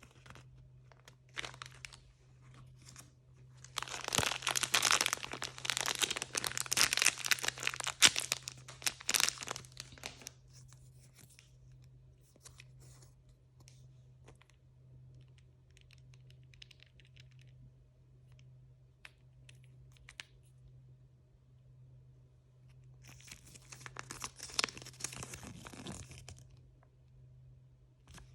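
Blind bag packaging being torn open and crinkled by hand, in two spells of dense crackling with light rustles and clicks between them.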